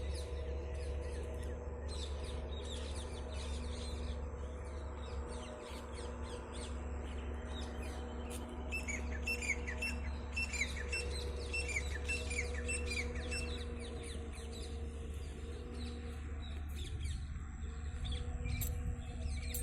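Small birds chirping and calling, with a quick series of repeated falling notes in the middle, over a steady low hum.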